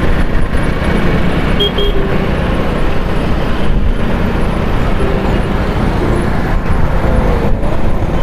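Steady road noise of a motorcycle being ridden in traffic, dense and rumbling, with two short beeps about one and a half seconds in.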